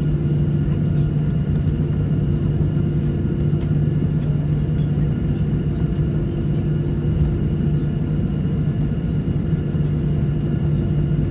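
Steady drone of an airliner in flight heard inside the passenger cabin: engine and airflow noise with a constant low hum and a few faint steady tones above it.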